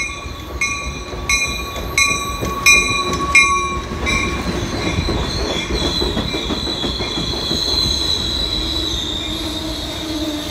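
Amtrak passenger train pulling in slowly past the platform, steel wheels squealing in a long, high, slowly sliding tone from about four seconds in, over a steady rumble. For the first three and a half seconds a bell dings about once every 0.7 seconds.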